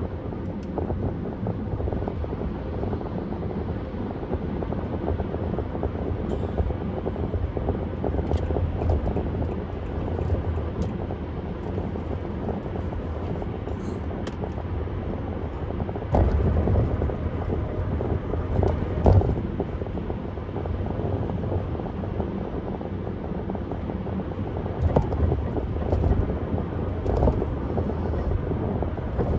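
Car driving along a highway at speed: steady rumble of tyre and wind noise, with a few louder thumps in the second half.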